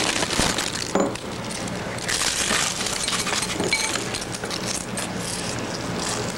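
Crunchy tortilla chips being chewed loudly with an open mouth close to the microphone: a dense run of irregular crackles and crunches.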